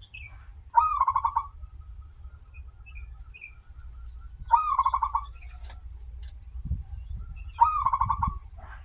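Zebra dove (perkutut) cooing three times, a few seconds apart, each call a short rolling phrase of rapid notes. Faint chirps of other small birds and a low steady hum lie underneath.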